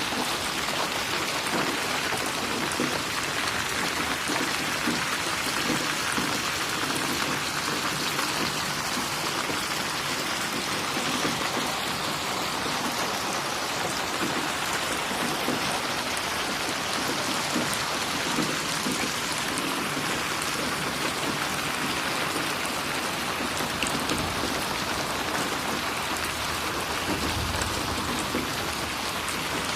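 Steady rain falling and splashing on a surface, an even, unbroken patter of many drops with no thunder.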